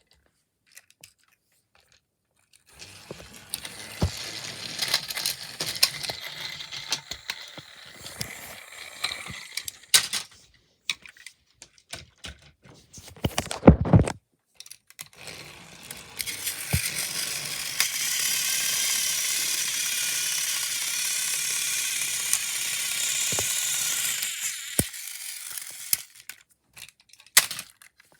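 Small battery-powered toy train motor whirring with plastic clattering, broken by a stretch of clicks and knocks. Near the end comes a steadier, louder run that cuts off about 25 seconds in.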